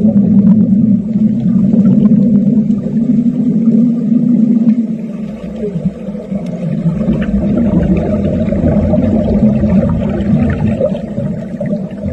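Underwater welding arc heard underwater: a steady low buzz with rapid crackling, easing briefly about halfway through.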